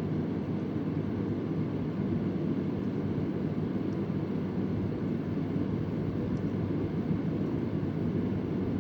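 Vintage Convair oscillating electric fan running steadily, a low, even rush of air and motor hum. Two faint ticks come through, about four seconds in and again a couple of seconds later.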